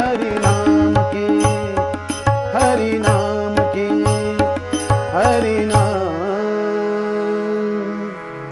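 Marathi devotional bhajan music: held pitched chords over regular drum strokes. The drumming stops about six seconds in, and the last chord is held until it cuts off suddenly at the end.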